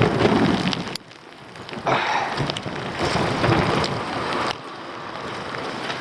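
Rain falling and pattering, with wind noise on the microphone; the level changes sharply about a second in and again near the end.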